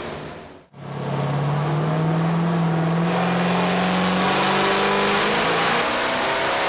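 Twin-turbo 6.6-litre LS2 V8 running hard under load. The sound drops out sharply under a second in, then comes back loud and steady, its pitch slowly rising toward the end.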